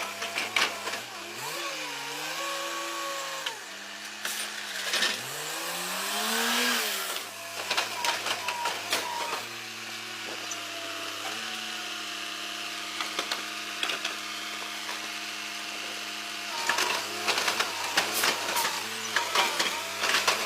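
Garbage truck engine running, revving up and falling back twice early on, then holding a steady pitch. Metallic clanks and knocks come at the start and again in a cluster near the end.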